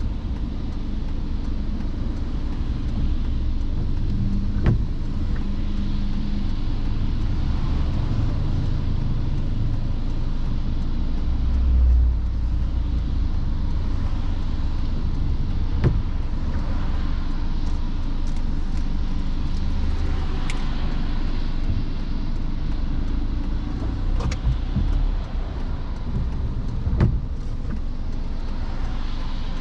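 A car driving on wet roads: a steady low rumble of engine and tyres, with a hiss of tyre spray, and a few short sharp knocks.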